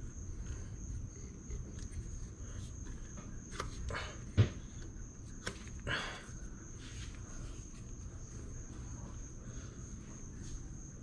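A few scattered knocks and clicks of tools and parts being handled, the sharpest about four and a half seconds in, over a steady low hum and a constant thin high-pitched tone.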